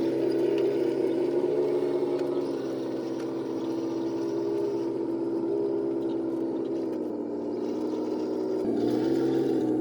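RC model tank's electric drive motors and gearboxes running with a steady whine; the pitch sags a little around the middle and rises again near the end.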